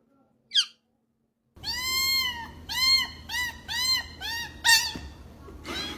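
A cat meowing about six times in quick succession, each meow rising and falling in pitch, starting about a second and a half in. A short high chirp comes before it, and two harsher, noisier cries come near the end.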